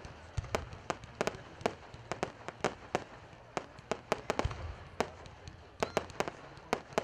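Aerial fireworks display: an irregular string of sharp bangs from bursting shells, about three a second, with a couple of deeper thumps among them.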